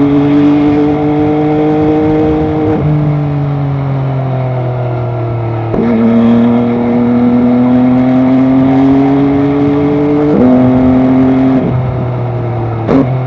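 MV Agusta Dragster 800 RR's inline three-cylinder engine running under way, its pitch climbing slowly under load, falling off between about three and six seconds in, and changing abruptly at gear changes roughly every few seconds.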